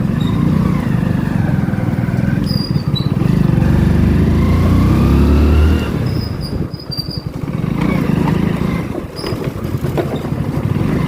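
Motorcycle engine running on the move, its pitch climbing as it accelerates through the middle. It eases off sharply about six seconds in, then picks up again.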